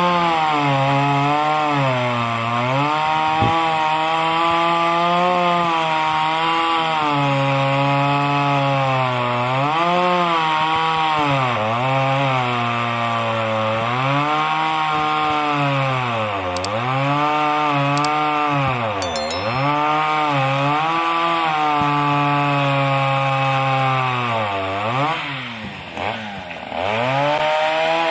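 Chainsaw running under load while cutting wood, its engine pitch dipping and recovering again and again. About 25 seconds in, a deeper dip comes with a brief drop in level before it picks up again.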